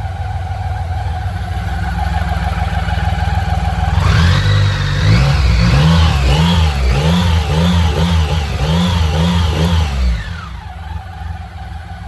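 BMW K75 motorcycle's three-cylinder engine idling, then revved in quick repeated throttle blips, about two a second, for roughly six seconds, before dropping back to idle.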